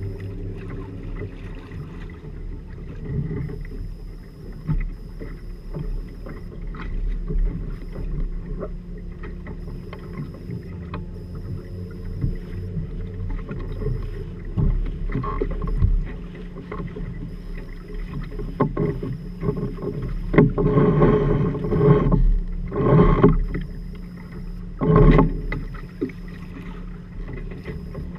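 Water and hull noise of a Firefly 26 trimaran under way, with a steady low hum underneath and scattered knocks. It swells into louder rushing surges about two-thirds of the way through.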